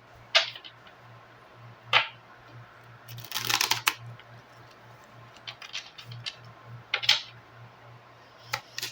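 Tarot cards being shuffled and handled: scattered sharp snaps and taps, with a rustling riffle lasting about a second, around three and a half seconds in. A faint steady low hum runs underneath.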